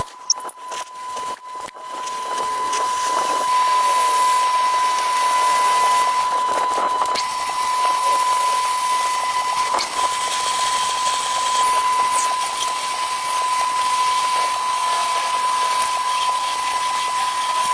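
A metalworking power tool running steadily, with a constant high whine over hiss. There are a few knocks and clicks in the first couple of seconds.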